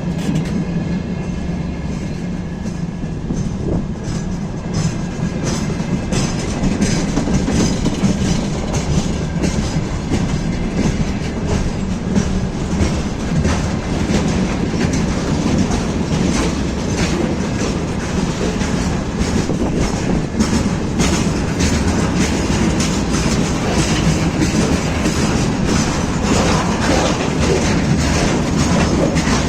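A train hauled by an ER20CF diesel locomotive rolling past at speed, its wheels clicking rapidly over the rail joints above a steady low rumble. The clicking grows denser a few seconds in.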